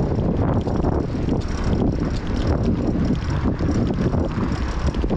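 Wind buffeting the microphone of a bicycle-mounted action camera while riding, a steady low rushing noise.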